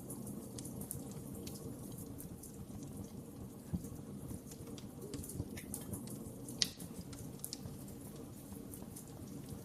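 Wood fire burning: a steady low rumble with scattered crackles and small pops, two louder pops near the middle and about two-thirds of the way through.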